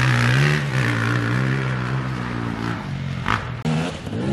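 Dirt bike engine running at steady high revs, easing off about two and a half seconds in, then revving up again with rising pitch near the end.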